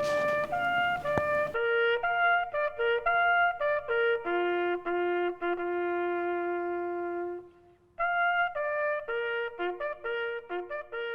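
A trumpet playing a melody of short notes, with one long held low note in the middle and a brief break about seven and a half seconds in.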